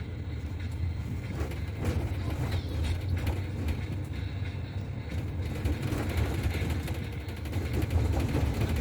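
Interior of a double-decker bus on the move: a steady low engine and road rumble inside the cabin, with a few brief knocks or rattles.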